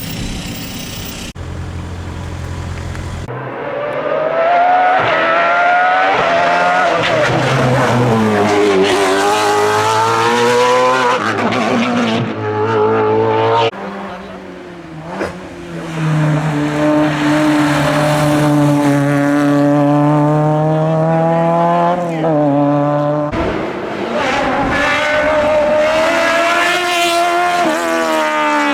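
Race car engine at full throttle, its pitch climbing through each gear and dropping back at the upshifts, several times over, louder from about three seconds in.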